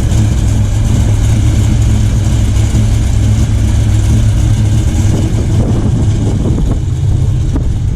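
A car engine running steadily with a loud, deep exhaust rumble.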